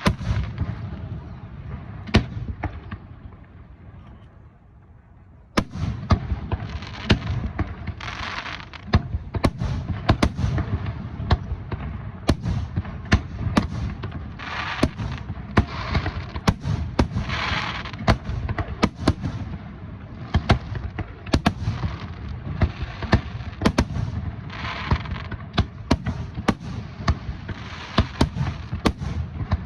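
Aerial fireworks display: a few booming shell bursts, then from about five seconds in a rapid, continuous barrage of bangs, several a second, over a low rumble.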